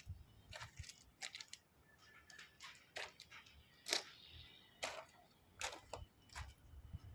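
A series of short, sharp clicks and taps, about eight of them, irregularly spaced.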